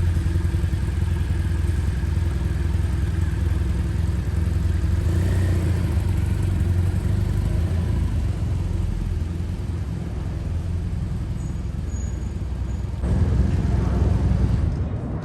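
Motorcycle engine running steadily while riding, with road and wind noise; it grows louder briefly about thirteen seconds in.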